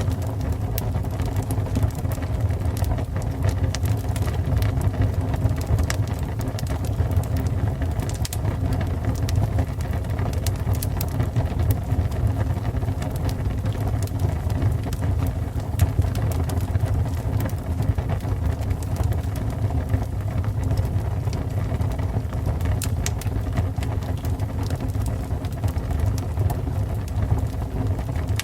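Fire burning steadily: a low continuous rumble of flames with frequent small, irregular crackles and pops.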